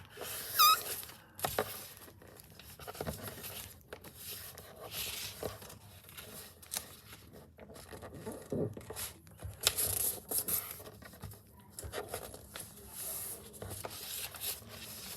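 Sheet of paper rustling and crinkling in the hands as it is folded and creased, in irregular scrapes and rubs. A brief high-pitched squeak sounds just under a second in.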